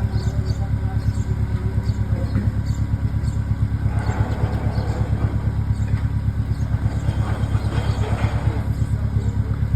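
Car engine running at low revs while the car reverses slowly: a steady low throb with a rapid, even pulse.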